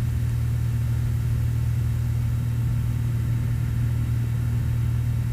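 Cessna 182's six-cylinder Continental O-470 engine and propeller droning steadily in flight, heard from inside the aircraft.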